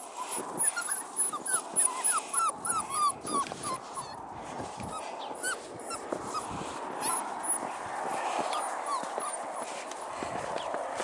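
Texas Heeler puppies whining and whimpering in quick, short, high-pitched cries that rise in pitch. The cries come thick and fast in the first few seconds, then thin out over a steady rustling noise.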